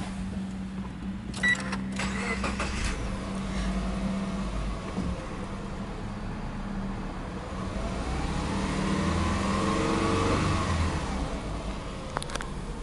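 Subaru Impreza 2.0i-S's EJ20 flat-four engine idling in Park, heard from inside the cabin. About eight seconds in it is revved once, the pitch rising over about two seconds and falling back. A sharp click comes about a second and a half in.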